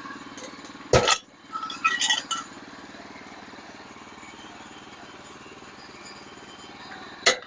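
Sharp metal clanks and ringing clinks from work at a sawmill: a loud strike about a second in, a few ringing clinks a second later, and another sharp strike near the end. Underneath is a steady low engine hum.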